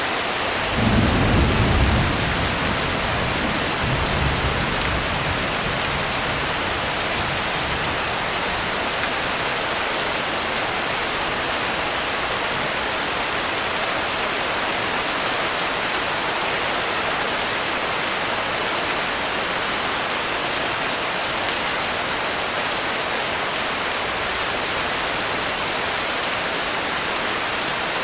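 Steady rain hissing, with a low roll of thunder about a second in and a softer second rumble a few seconds later that dies away, leaving the rain alone.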